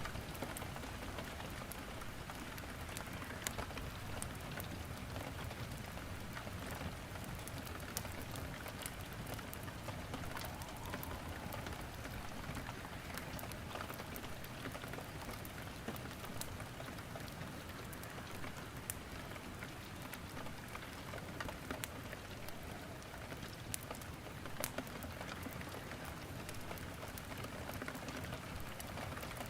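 Steady rain falling, mixed with a wood fire crackling in a fireplace, with occasional sharper pops from the burning logs.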